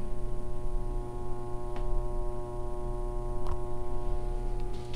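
Steady electrical hum, a set of constant tones, with a few faint clicks.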